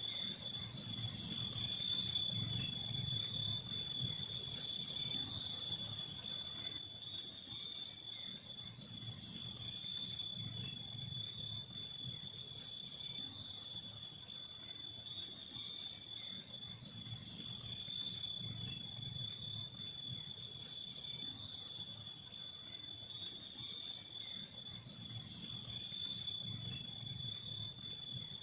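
Forest insects, crickets or similar, chirring in a steady high-pitched trill, with a low, uneven pulsing underneath.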